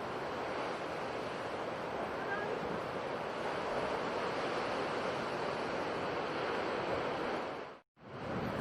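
Sea waves washing in a steady rush of surf. The sound cuts out completely for a fraction of a second near the end, then resumes.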